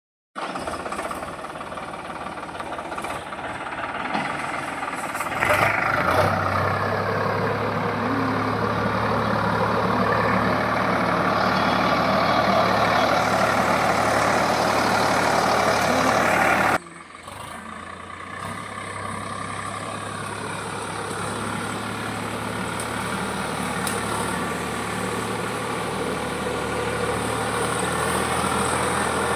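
Sonalika 745 DI tractor's diesel engine running steadily while pulling a trolley loaded with stone chips. It grows louder about five seconds in, drops off abruptly about seventeen seconds in, then builds back up.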